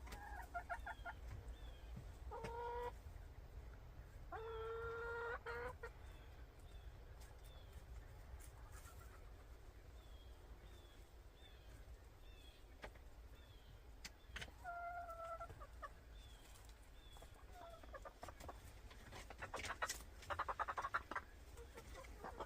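Hen calling in short bursts: a few drawn-out pitched calls, the longest about a second, then a run of quick clucks near the end, from a hen the keeper calls displeased and not happy. Faint short high peeps recur throughout.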